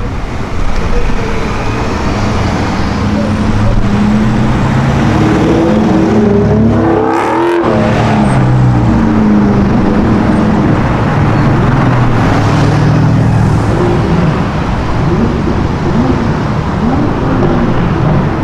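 Sports car engine accelerating hard, its pitch climbing and then dropping sharply about seven seconds in, after which it pulls on steadily with further rises and falls in pitch near the end.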